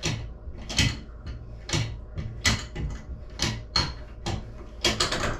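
Short scrapes and clicks, about one a second, from a plastic shower head being handled and twisted into place on the shower arm by hand.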